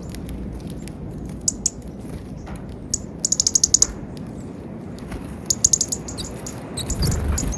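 Small birds at a peanut feeder calling in short, high chips, several in quick runs, the longest about three seconds in. A brief low rumble comes near the end.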